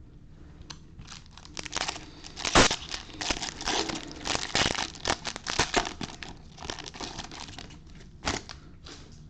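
Foil wrapper of a Bowman Hobby baseball card pack being torn open and crumpled, a run of sharp crinkles and rips with the loudest rip about two and a half seconds in.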